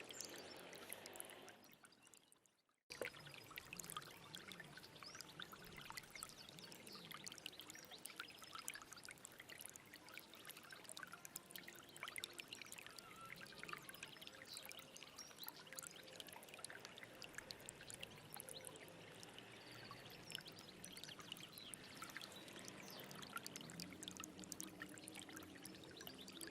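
Stream water running and splashing steadily. It fades away to silence about two seconds in, then cuts back in suddenly about a second later.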